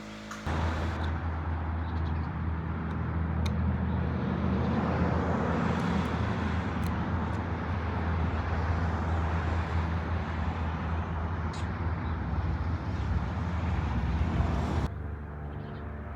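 Steady low rumble with a noisy hiss, like a running vehicle. It cuts in abruptly and cuts off abruptly near the end.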